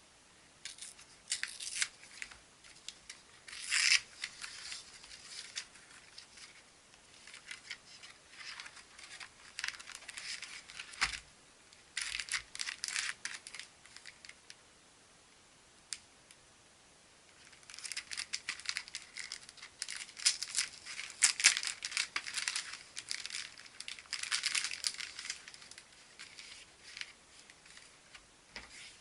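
Packaging being torn open and crinkled by hand in irregular bursts, with a single light knock about eleven seconds in.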